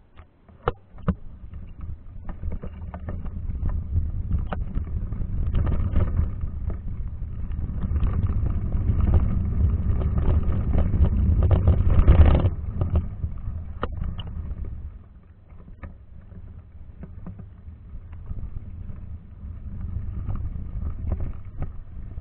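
Waterfall's rushing water, a low noisy rumble that swells over the first twelve seconds and drops off sharply about fifteen seconds in, with scattered knocks.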